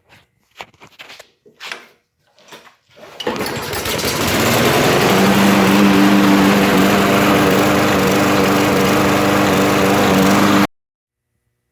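Lawn mower's small engine is started after a few handling clicks, catches about three seconds in and runs steadily, then cuts off suddenly near the end. It still has the idle surge that cleaning the carburetor passages has not cured.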